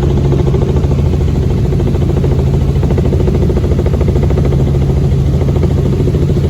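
Helicopter engine and rotor noise: a loud, steady drone with a fast, even beat.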